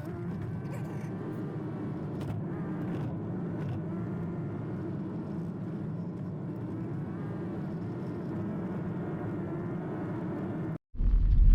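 Toyota Prius driving: steady road and tyre noise with a faint wavering whine. Near the end it cuts out abruptly and a much louder low rumble begins.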